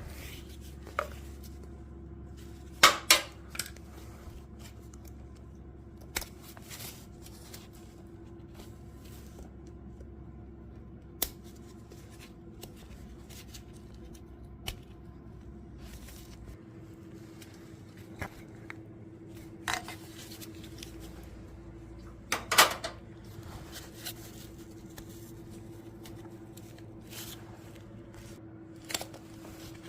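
Hand tools and metal engine parts clicking and clanking at irregular intervals during an engine teardown, with the sharpest knocks about three seconds in and again after about 22 seconds, over a steady faint hum.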